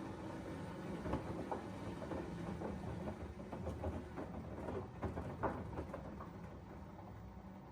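LG front-loading washing machine in its wash phase: a low motor hum with irregular soft knocks and splashes of wet laundry tumbling in the drum, busiest from about one to six seconds in and easing near the end.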